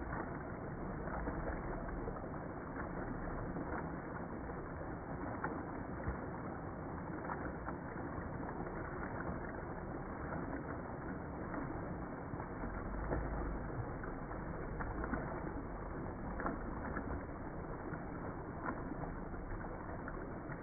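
Mountain waterfall: water rushing and splashing in a steady, even noise, with small sharp splashes scattered through it.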